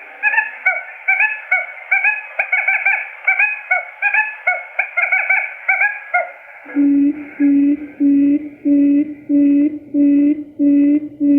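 Quail lure calls: a rapid run of high, chattering chirps several times a second, then, about six and a half seconds in, a switch to a low hooting note repeated about twice a second.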